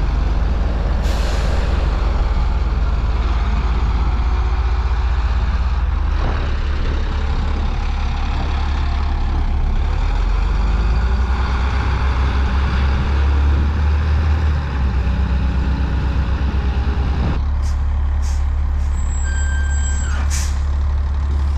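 Diesel engine of an off-road haul truck running with a deep, steady rumble. Air hisses out of its air-brake system about a second in and again near the end. A brief high steady tone sounds shortly before the end.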